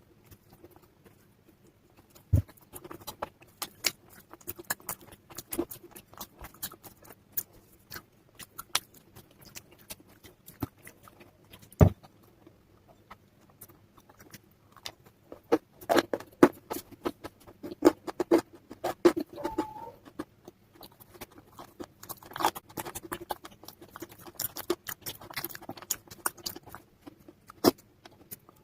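Brittle slate pencils and dried clay paste being snapped and crunched at close range, a run of sharp crackles that grows denser in the second half. A louder crack comes about two seconds in and another about twelve seconds in, over a faint steady hum.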